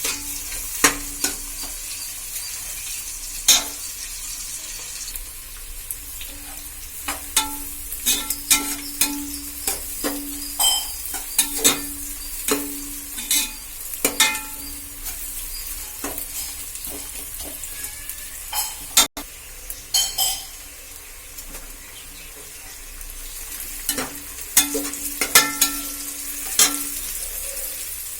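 Food sizzling in hot oil in a cooking pot while a metal spoon stirs it, with sharp irregular clinks and scrapes of the spoon against the pot over a steady frying hiss.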